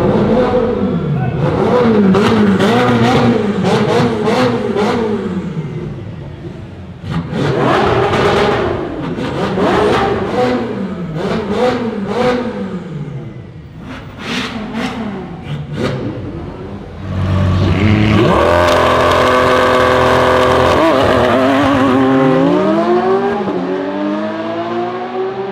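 Lamborghini Aventador's V12 engine being revved in repeated blips, its pitch rising and falling, with sharp cracks among the revs. Then, about 17 seconds in, it pulls hard at steady high revs, drops in pitch for a moment and climbs again near the end.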